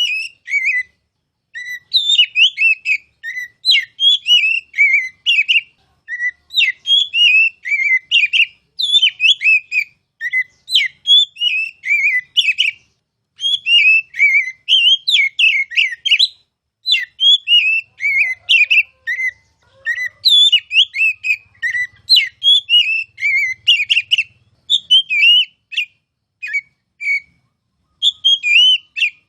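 Oriental magpie-robin singing loud, clear whistled phrases, each a quick run of rising and falling notes, repeated every second or so with short pauses.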